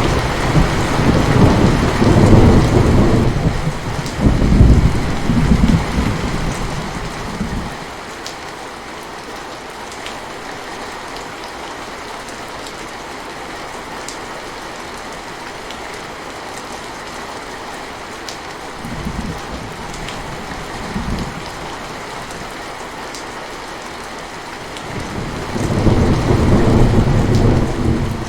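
Steady rain falling, with rolling thunder. A long rumble lasts the first seven seconds or so, two short ones come around the middle, and another swells up near the end.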